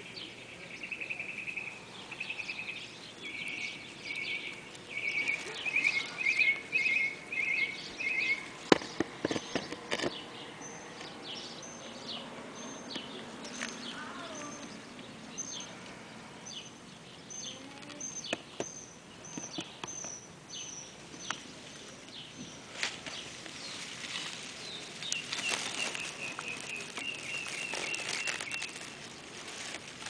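Small birds calling: bursts of rapid pulsed trills, then a long series of short high notes about twice a second, then more trills near the end. A few sharp knocks come about nine seconds in.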